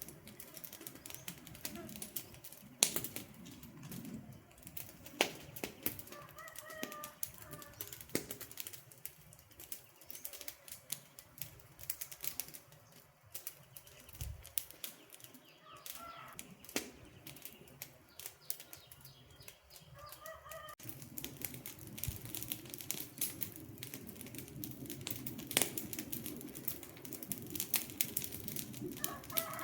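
Wood campfire crackling, with dense, irregular snaps and pops; the low rush of the flames grows louder about two-thirds of the way through. A bird gives short calls four times.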